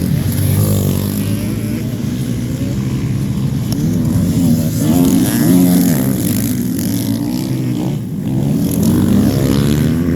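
Several motocross bikes racing, their engines revving up and down as the riders work the throttles, loudest about halfway through and again near the end.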